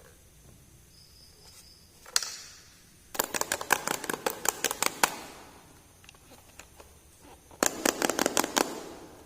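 Small plastic toy pieces and packaging being handled. There is a single click about two seconds in, then two runs of rapid clicking and rattling: one lasting about two seconds and a shorter one near the end.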